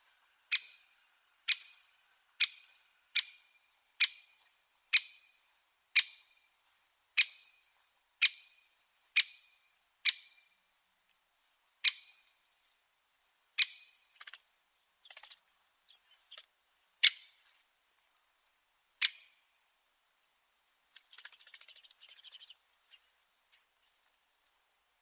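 A garden bird giving a sharp, single-note call over and over, about once a second at first, then at longer gaps until it stops. Near the end there is a faint, soft rustle.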